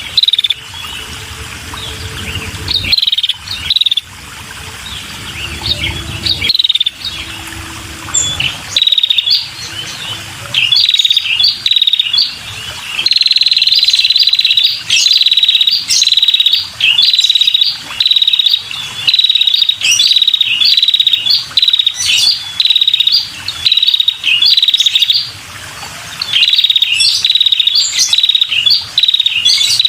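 Female red-headed prenjak calling: quick series of sharp, high chirps broken by short pauses, with a longer rapid trill about thirteen seconds in. This female call is used to lure male prenjak.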